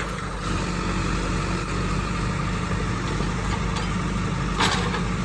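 Diesel engine of heavy land-clearing equipment running steadily, with a short burst of noise near the end.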